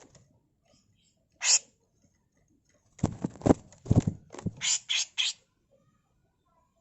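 Grey-cheeked bulbul (cucak jenggot) giving harsh, rasping calls: one short call about a second and a half in, then a rapid run of rough notes from about three seconds to five.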